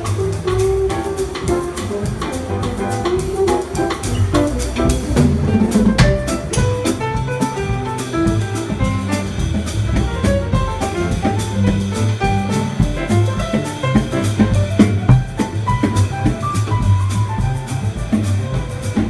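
A jazz band playing, with drum kit and melody notes over a steady beat.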